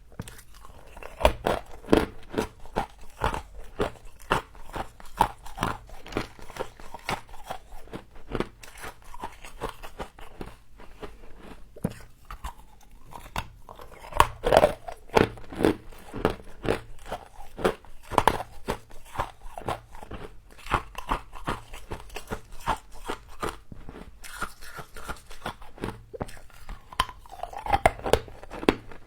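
Close-miked biting and chewing of crunchy frost: a dense, irregular run of crisp crunches and crackles as the ice is bitten and chewed.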